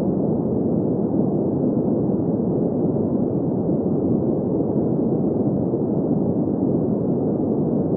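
Steady green noise: an even, unchanging rush of noise centred in the low-middle range, with almost nothing above about 2 kHz.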